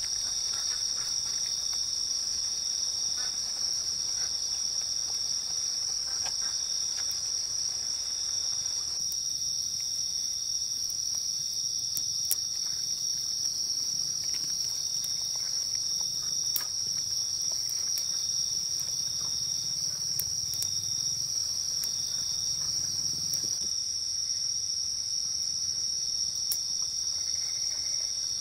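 A steady, high-pitched chorus of night insects trilling in tropical forest, with occasional faint crackles from a small wood fire.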